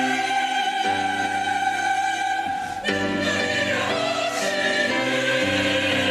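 Church choir singing a hymn anthem, holding sustained chords that change about every two seconds.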